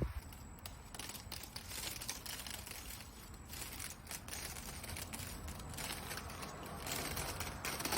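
Leafy vine being torn away from a house wall: irregular crackling, snapping and rustling of stems and leaves as they pull loose.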